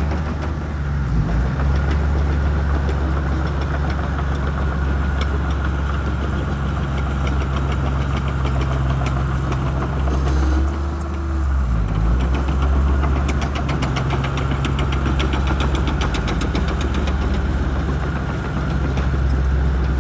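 Shantui bulldozer's diesel engine running steadily under load, with a brief dip about halfway. A fast ticking clatter joins in during the second half.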